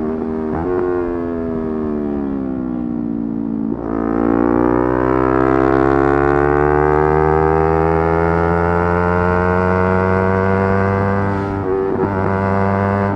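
Yamaha R3's 321 cc parallel-twin engine at high revs: its pitch falls for about three seconds, then after a brief break it climbs steadily under acceleration for about seven seconds, with another short break from a gear change near the end.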